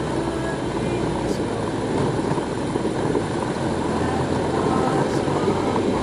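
BMW R1250GS motorcycle under way: a steady rush of wind and road noise mixed with the engine running.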